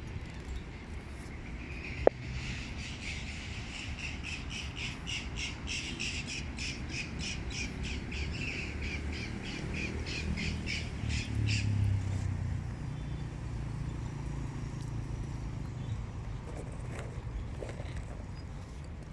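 A bird calling in a rapid, even series of short harsh squawks, about two or three a second, for roughly nine seconds before stopping, over a low steady rumble. A single sharp click about two seconds in.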